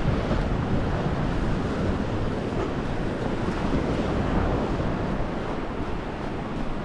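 Wind buffeting the microphone in a steady low rumble over the continuous wash of sea surf.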